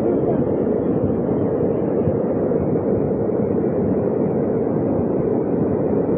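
Floodwater rushing steadily, an unbroken noise with no separate events.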